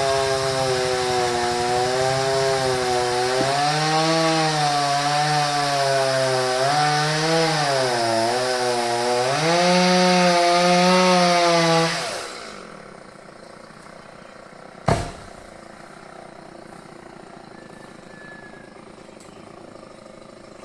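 Two-stroke chainsaw running at high speed through wood, its pitch dipping and recovering as the chain bogs in the cut, then winding down about twelve seconds in. A single loud, sharp knock follows a few seconds later.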